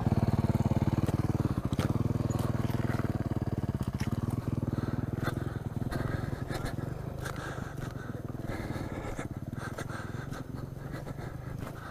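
Dirt bike engine running steadily at idle just after being started, its firing pulses even, slowly fading in level.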